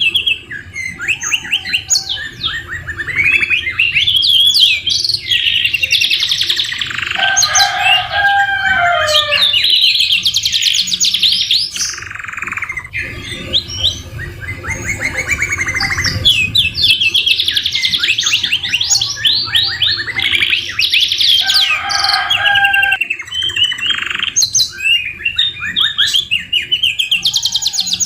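Canary singing continuously, a song filled with phrases copied from the white-rumped shama (murai batu): fast trills and rapid runs of repeated high notes, with a lower warbling phrase about eight seconds in and again about twenty-two seconds in.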